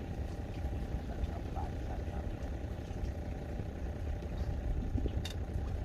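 An engine running steadily with a low rumble and a faint hum. There is a single sharp click about five seconds in.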